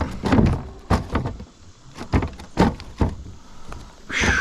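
Irregular knocks and thumps against a plastic fishing kayak's hull as a freshly landed smallmouth bass is handled aboard, with a short squeak that falls in pitch near the end.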